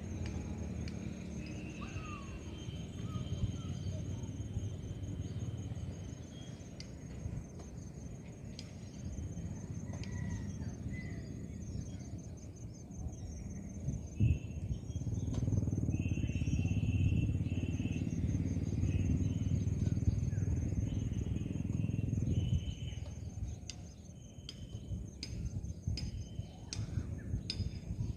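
Insects trilling steadily in a high, fast-pulsing note over a low outdoor rumble that swells in the middle and eases near the end, with a few short bird chirps now and then and some sharp clicks in the last few seconds.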